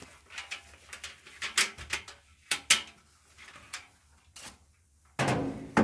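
Scattered clicks and knocks of dryer parts and tools being handled during disassembly or reassembly, with a longer, louder scraping noise starting about five seconds in.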